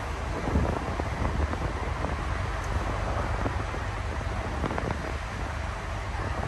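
Wind buffeting the microphone over a steady low rumble aboard a moving river cruise ship.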